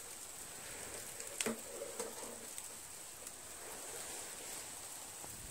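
Faint hiss with a few light clicks and knocks from mower engine parts being handled, the sharpest click about a second and a half in.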